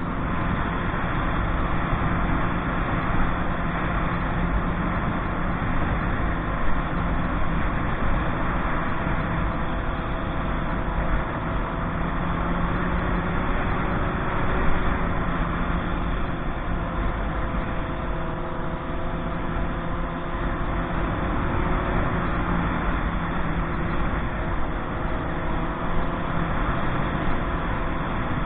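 Motorcycle engine running at a fairly steady speed during a ride, under a constant rush of noise.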